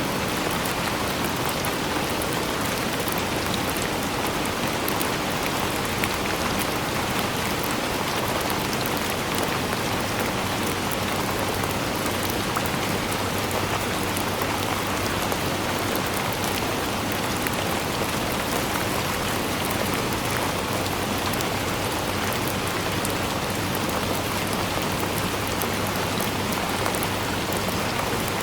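Steady, even rainfall with a dense patter of drops striking a surface, constant throughout with no pauses or thunder.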